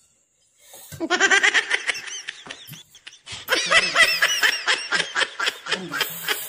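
A person laughing hard in two long bouts of rapid, high-pitched ha-ha pulses, starting about a second in and again from about three and a half seconds.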